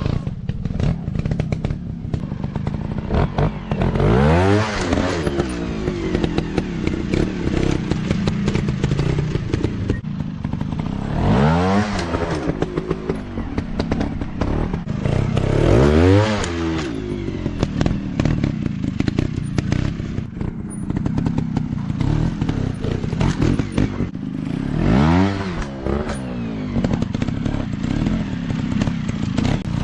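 Off-road dirt bike engines running, with the pitch sweeping up and back down about five times as the throttle is opened and closed, over a steady low engine note.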